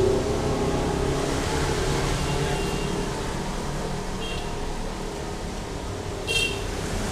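A motor vehicle's engine passing and fading away, leaving steady traffic-like background noise, with short high beeps about four seconds in and again near the end.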